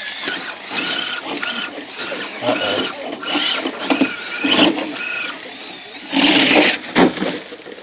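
Electric motors of RC crawler trucks whining in short throttle spurts, then a loud scraping rush about six seconds in and a brief knock a second later.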